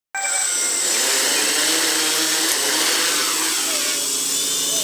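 GAUI 330 quadcopter's electric motors and 10-inch propellers running, a steady whirr with several high whining tones that starts abruptly. A single brief click comes about halfway through.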